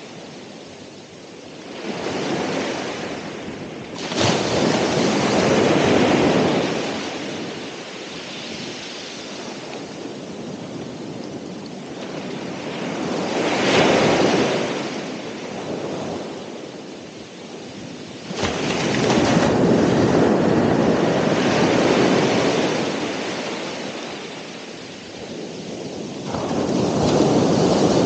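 Ocean surf: several waves break in turn, each swelling up and washing back. Two land with a sudden crash, one about four seconds in and one about two-thirds of the way through.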